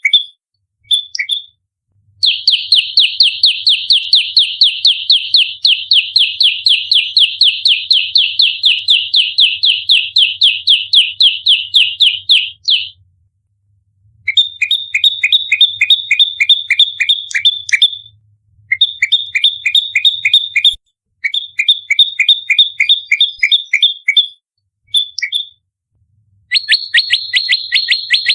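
Prenjak lumut singing its fighting song: long runs of sharp, rapidly repeated chip notes, about five or six a second, the longest run lasting about ten seconds, with short breaks between runs.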